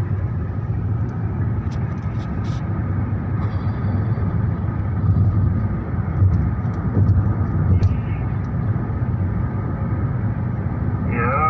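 Steady low rumble of a road vehicle driving, with a few faint clicks.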